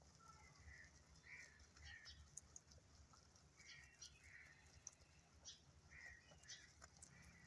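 Near silence, with faint short bird chirps coming in small groups and scattered soft clicks.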